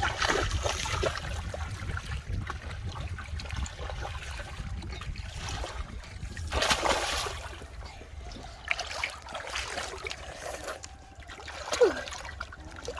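Shallow muddy water splashing and trickling as hands work through it, in uneven bursts with a bigger splash about a second in and another near seven seconds in.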